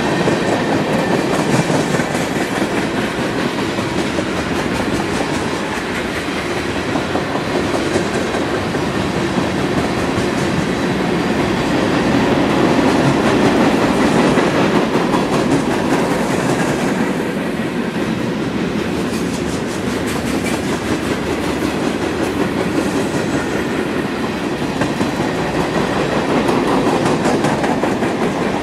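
Freight train cars (tank cars, covered hoppers and open hoppers) rolling steadily past, a continuous rumble and clatter of steel wheels on the rails.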